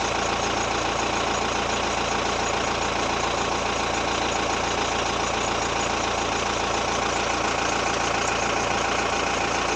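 Steady, even noise that does not change, with no distinct events.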